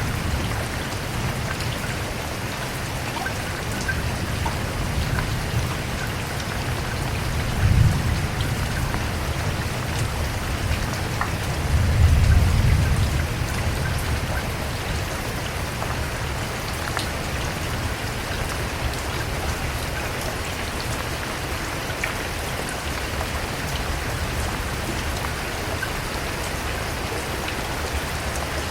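Steady rain falling, an even hiss with scattered drop ticks. Two brief low rumbles swell up, about eight and twelve seconds in.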